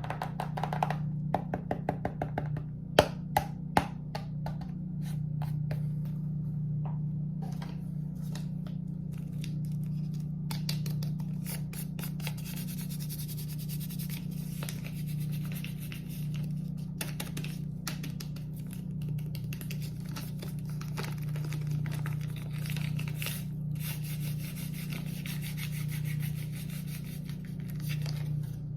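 Close-miked ASMR trigger sounds: a few sharp taps in the first seconds, then fast, continuous rubbing and scratching on a surface, over a constant low hum.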